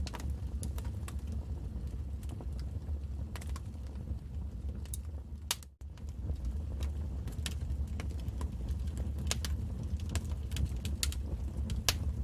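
Wood fire in a fireplace crackling: a steady low rumble of the flames with irregular sharp pops and snaps. The sound cuts out for a split second about six seconds in.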